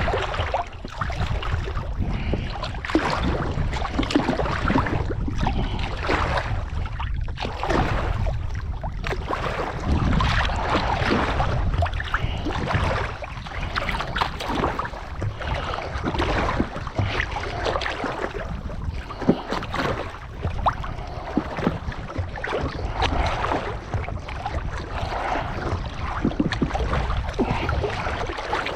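A swimmer's strokes splashing and sloshing water close to the microphone, an uneven run of splashes over a steady low rumble of water and wind on the microphone.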